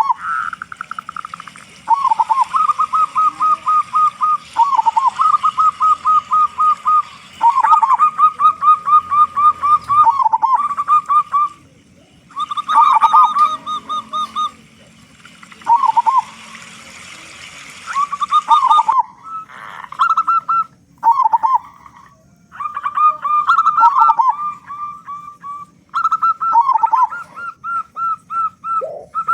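Zebra dove (perkutut) cooing loudly in repeated phrases. Each phrase opens with a short dip and runs into a quick string of staccato notes, with short pauses between phrases.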